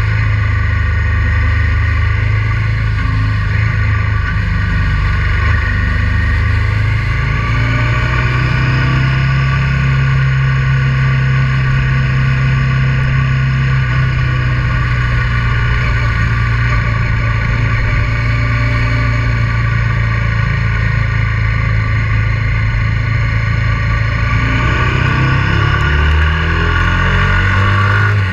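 Honda Transalp 650's V-twin engine running steadily under way on the road. The engine note shifts in pitch in the last few seconds.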